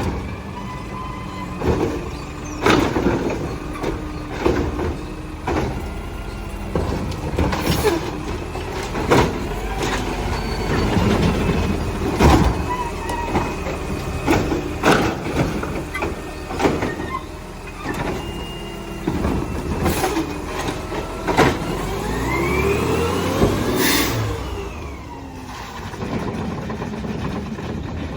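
Garbage truck working at the curb: its engine runs steadily under a string of sharp clanks and bangs from barrels and metal. Near the end come curving squeals that rise and fall.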